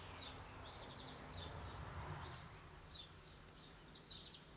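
A small bird calling over and over, faint short high chirps about twice a second.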